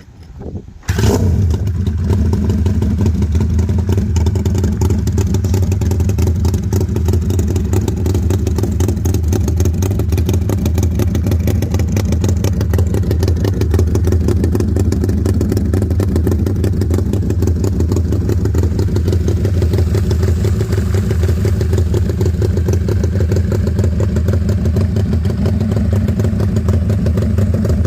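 Homemade V4 engine starting about a second in, then running steadily.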